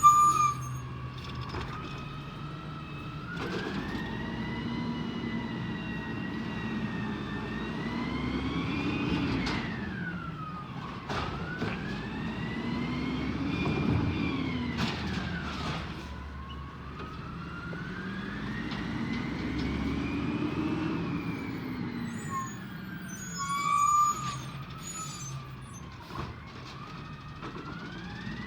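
Peterbilt 320 garbage truck engine revving up and easing off about three times, with a whine that rises and falls along with the revs. A few sharp knocks are heard along the way.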